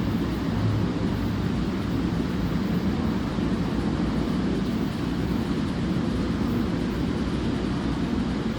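Train in motion: a steady low rumble that holds an even level without rising or fading.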